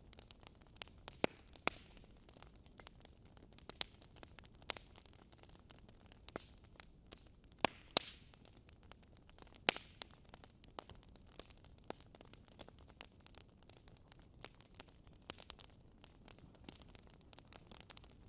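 Wood fire crackling in a fireplace: irregular sharp pops and snaps, a few of them much louder, over a soft steady hiss.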